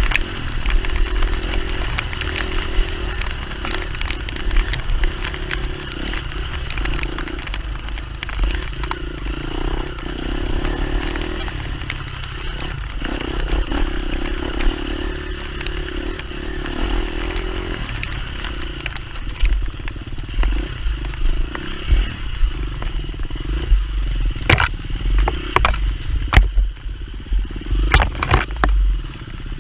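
Enduro dirt bike engine running at low to moderate revs while riding a trail, its pitch rising and falling with the throttle. Sharp knocks and clatter from the bike over rough ground come several times near the end.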